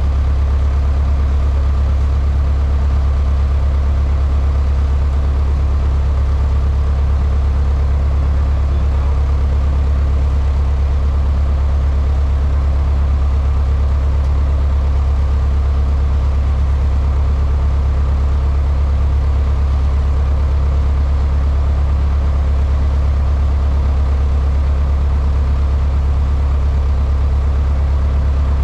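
Cessna 152's Lycoming O-235 four-cylinder engine and propeller running at a steady, unchanging drone, heard from inside the cockpit.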